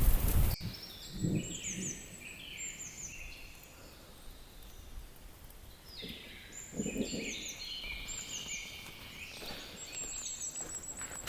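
Rain hiss that cuts off abruptly about half a second in, followed by forest birds calling: repeated series of high, quick down-slurred whistled notes. Two short low sounds come through, about a second in and again about seven seconds in.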